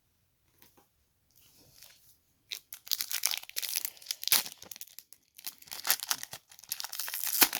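Foil wrapper of a trading card pack being torn open and crinkled. Faint handling at first, then a dense run of crackling from about two and a half seconds in, in two spells with a short lull between.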